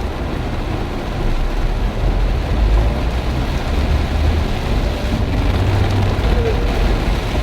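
Heavy rain pouring down, with a low rumble underneath that grows louder about a second and a half in.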